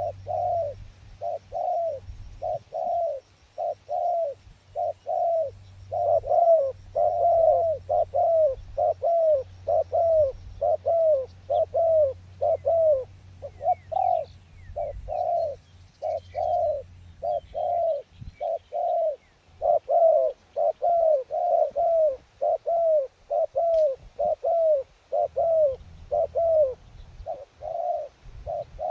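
Doves cooing: a long, almost unbroken run of repeated low coos, about two a second, from a dove set out as a decoy. A low rumble of wind runs underneath.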